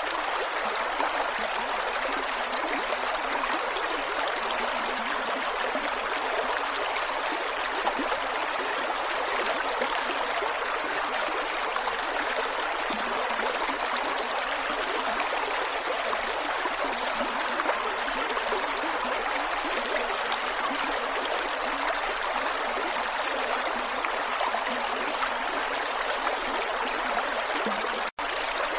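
Creek water flowing and gurgling over rocks in a steady, even rush, with a split-second dropout near the end.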